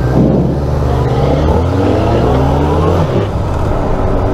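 Suzuki GSF 650 Bandit's inline-four engine accelerating away, its pitch rising twice with a gear change between, then running steadily at speed from about three seconds in.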